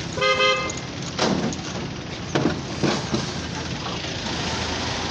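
Steady rumble of vehicle engines at a port ramp, with a short, steady, high-pitched tone near the start and a few sharp knocks about a second apart.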